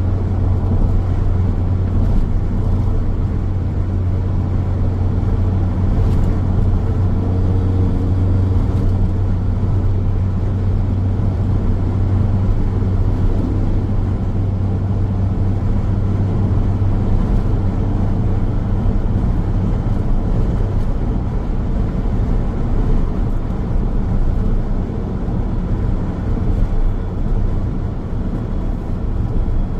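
Car driving along a highway: a steady drone of tyre and engine noise with a strong low hum, and a faint tone that bends up and down for a few seconds near the first third.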